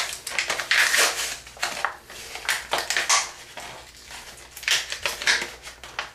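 Package of a needleless syringe being torn open and handled, crinkling in irregular bursts of rustling.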